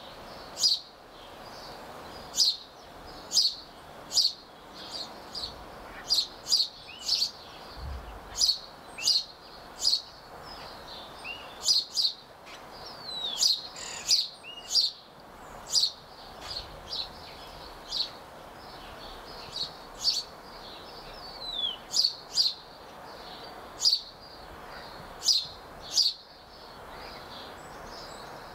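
A small songbird chirping: short, sharp calls repeated at irregular intervals, about one or two a second, with a few downward-gliding notes among them, over a faint steady outdoor hiss.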